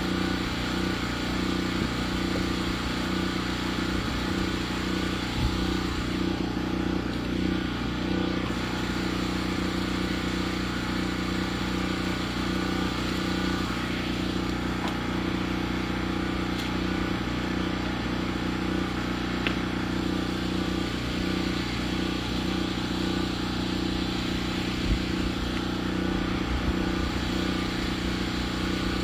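Portable sawmill's engine running steadily at constant speed, its pitch unchanging throughout.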